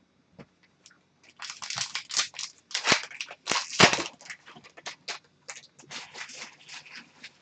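Crinkling and rustling of a trading card pack's wrapper and the cards inside being handled, in a run of short crackly bursts, loudest about three to four seconds in.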